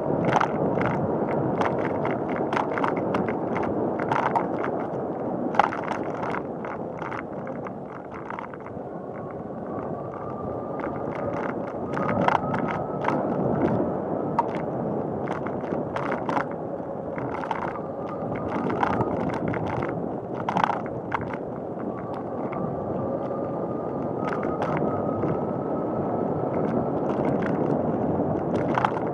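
Bicycle riding along a paved path: steady tyre and road noise, with frequent rattling clicks and a faint thin whine that comes and goes.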